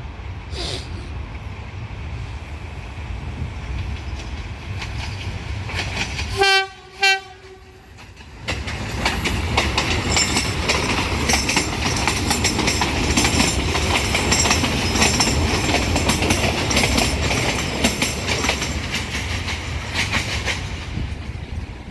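Passenger train approaching with a steady rumble, then sounding two short horn blasts about six and a half seconds in. It then passes close by with its wheels clattering over the rail joints.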